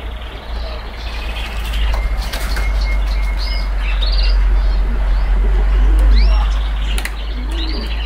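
Small birds chirping, with short arching calls repeated every second or so, over a steady low rumble and a few sharp clicks.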